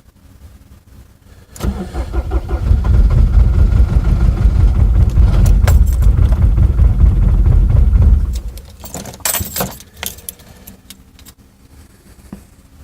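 Diesel engine cold-starting about one and a half seconds in, then running loud and rough for about six seconds before the sound drops away. A few sharp rattles follow.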